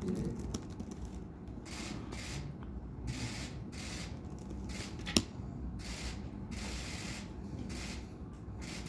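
Press photographers' camera shutters firing in rapid bursts: about eight short runs of clicking, with one sharp, louder click about five seconds in.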